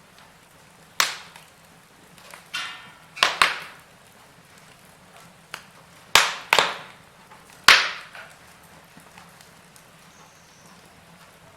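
Wood fire crackling in a fireplace: irregular sharp pops and snaps, about seven loud ones among fainter ticks, over a quiet steady background.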